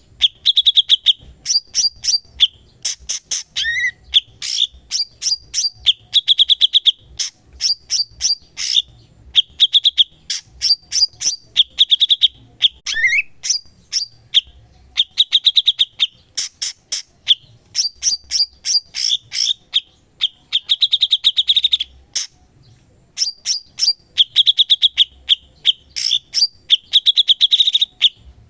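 Cucak cungkok songbird singing non-stop: fast trills and sharp, repeated chirps in quick phrases, with a short break about 22 seconds in.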